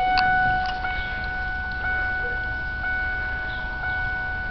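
Ford Ranger's dashboard warning chime sounding steadily, an electronic tone with a regular repeating tick, before the engine is cranked.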